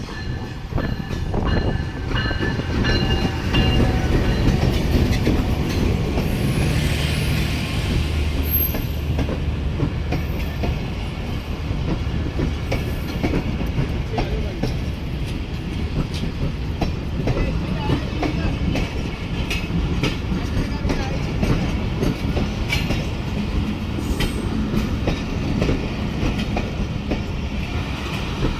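Jaffar Express passenger train running along the track: a steady rumble with wheels clicking over rail joints, and a couple of brief high wheel squeals.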